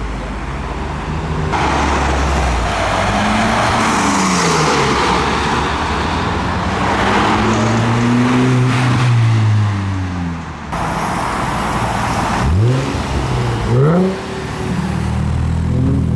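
Car engines driving past at low speed, their notes rising and falling in pitch as they pull through, with two quick revs near the end.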